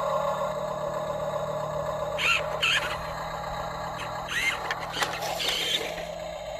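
Steady hum of a radio-controlled model vehicle's small electric motors, with a few brief high chirps about two and four seconds in.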